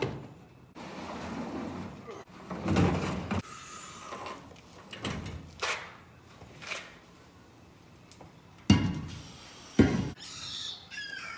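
Irregular knocks and thuds with handling and rustling noise between them, including two sharp knocks about nine and ten seconds in.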